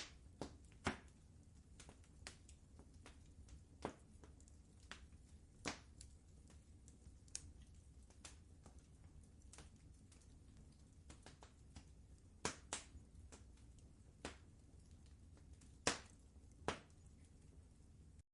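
Wood fire crackling in a fireplace: irregular sharp pops and snaps, about a dozen over the stretch, some louder than others, over a faint low rumble.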